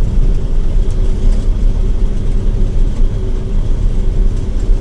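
John Deere 9700 combine running steadily while harvesting wheat: a constant low machine rumble with a faint steady hum over it.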